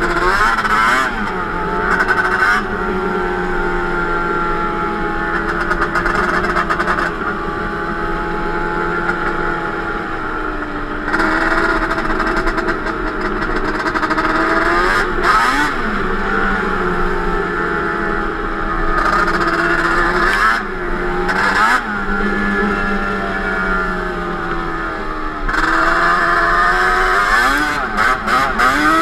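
Yamaha Banshee 350 twin-cylinder two-stroke ATV engine with a Toomey T5 exhaust, revving up and down again and again under riding throttle, with several louder bursts of acceleration.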